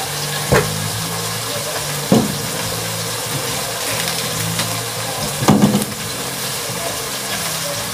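Crab sizzling steadily in a pot on a gas stove, with a low hum underneath. Three short knocks come about half a second, two seconds and five and a half seconds in.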